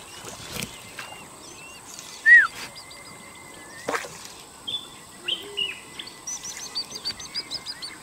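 Wild birds calling from the forest: assorted short chirps and whistles, the loudest a single falling call about two seconds in, then a quick run of chirps near the end. A sharp click sounds about four seconds in.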